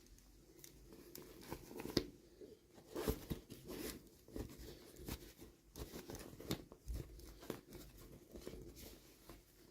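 Hands handling and opening plastic toy packaging, with irregular crinkling, tearing and small clicks over a faint steady hum.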